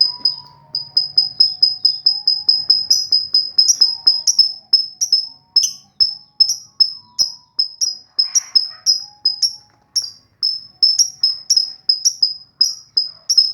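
Lovebird in breeding condition calling a long, even run of short, high-pitched chirps. They come quickly at first, then settle to about two or three a second.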